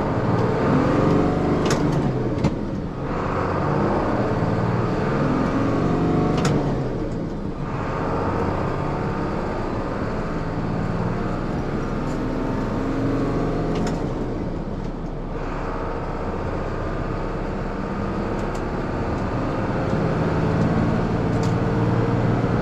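The 2001 Isuzu FRR's 7.8-litre turbo diesel running as the truck is driven, heard from inside the cab. The engine sound dips briefly three times and picks up again.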